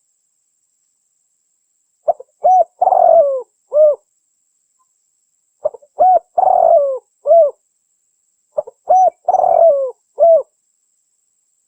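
Spotted dove (tekukur) cooing, three repeated phrases of short coos with a longer rough middle note, each phrase about two seconds long with clean silence between: a dove call played as a lure for wild spotted doves.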